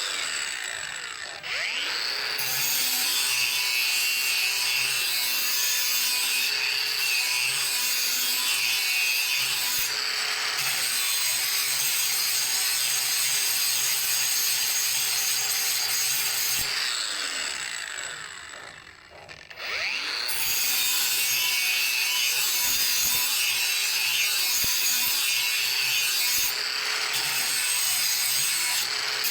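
Electric grinder working the steel of an old saw blade with a steady, rasping grind. The motor spins up about two seconds in, winds down to a stop about two-thirds of the way through, then spins up and grinds again.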